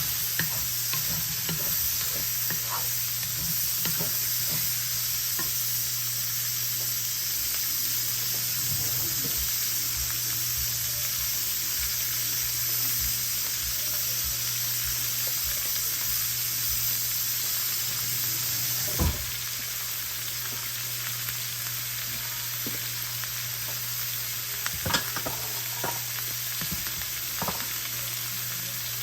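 Potatoes and capsicum frying in butter in a pan over high heat, with a steady sizzle. A spatula clicks against the pan now and then, with one louder knock about two-thirds of the way through. A steady low hum runs underneath.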